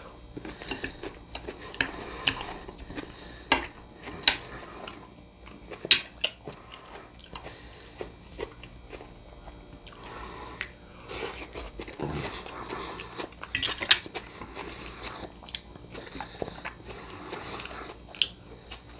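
Close-miked chewing and biting of a person eating a plate of food, with many sharp, wet mouth clicks and smacks scattered throughout.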